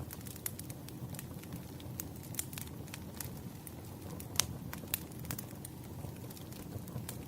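Campfire crackling: a steady low rumble of burning wood with irregular sharp pops, the loudest about four and a half seconds in.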